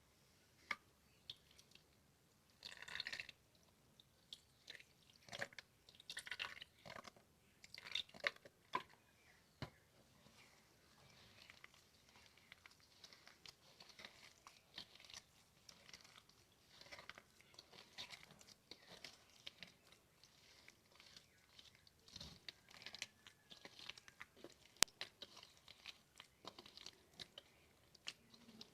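Faint, irregular squelching of hands kneading a wet, sticky mixture of mashed banana, flour and milk in a bowl, with an occasional sharp click.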